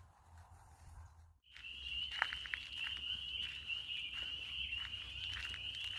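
A steady high-pitched trilling chorus of night creatures begins after a brief cut about a second and a half in, with a few footsteps on the trail beneath it.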